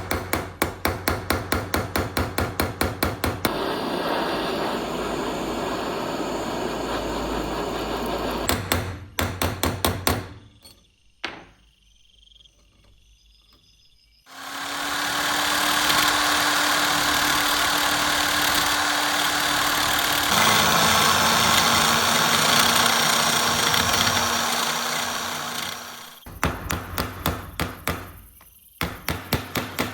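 Rapid hammer blows, about five or six a second, come in bursts at the start, about nine seconds in and near the end. Between them a power tool runs steadily, longest from about fifteen to twenty-six seconds in, with a short quiet gap around twelve seconds.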